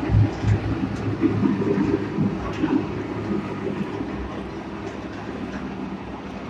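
Animal feed mixer running: a steady mechanical rumble with a low hum and scattered light clicks, a little louder in the first couple of seconds, then easing slightly.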